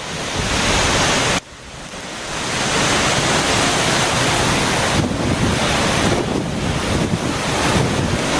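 Strong wind buffeting the microphone over rushing sea water, a loud steady roar of noise. It drops off suddenly about a second and a half in and builds back up.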